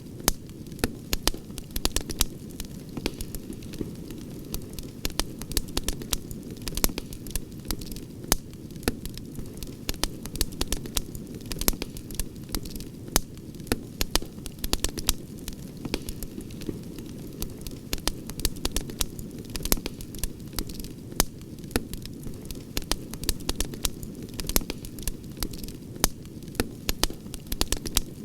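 Campfire crackling: frequent, irregular sharp pops and snaps over a steady low rush of burning.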